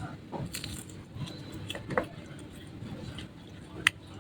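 Close-miked eating sounds: chewing and crunching with a few sharp clicks, the loudest near the end.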